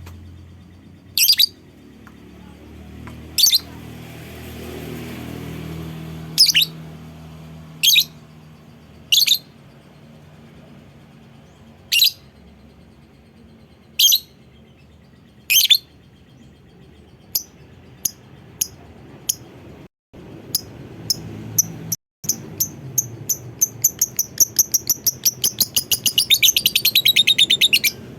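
Lovebird calling with single sharp chirps every second or two, then shorter calls coming faster and faster until they run into a long rapid chattering trill, the 'ngekek', near the end. The sound drops out briefly twice in the middle.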